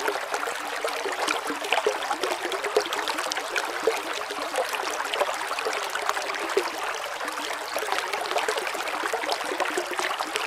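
Running water trickling and splashing steadily, with many small splashes over a constant hiss.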